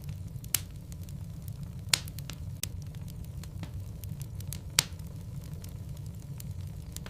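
Wood fire of burning logs in a fireplace: a steady low rumble of flames with sharp crackles and pops, three louder snaps about half a second, two seconds and five seconds in.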